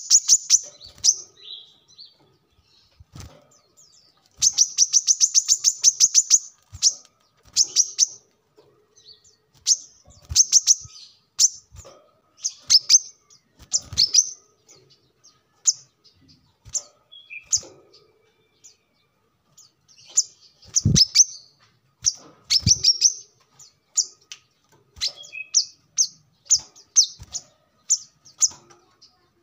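Brown-throated sunbird (kolibri kelapa) singing: bursts of rapid, high-pitched chirping trills at the start and again about four seconds in, then scattered short sharp chirps. A few soft low thumps occur among them.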